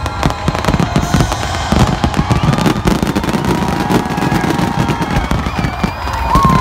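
Aerial fireworks shells bursting in a dense, rapid barrage, many loud bangs overlapping one after another.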